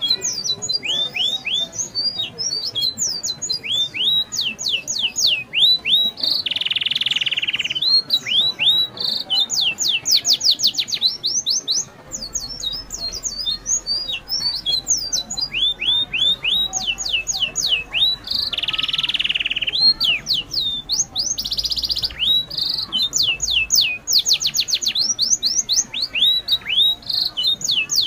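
Birds singing in the trees: quick series of high, falling whistled notes, over and over, with two short buzzing stretches, about six seconds in and again about eighteen seconds in.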